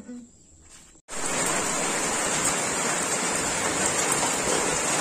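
Rain falling steadily, a dense even hiss that begins suddenly about a second in.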